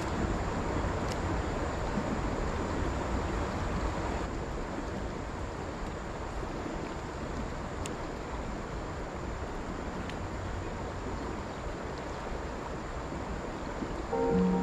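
Steady rushing outdoor noise of wind and river water, with a faint click or two.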